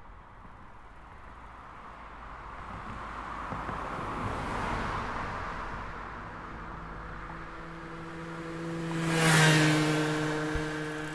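Motor vehicles passing on the road. One swells and fades about four seconds in. A louder one with a steady engine hum passes close about nine seconds in, its pitch dropping slightly as it goes by.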